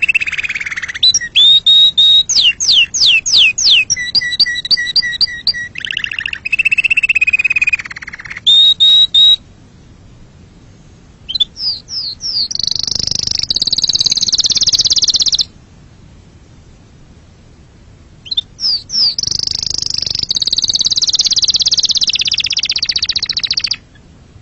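Domestic canary singing in long, loud phrases. Whistled slurs and quickly repeated notes open the song, followed by two fast rolling trills about 11 and 18 seconds in, each separated by a short pause.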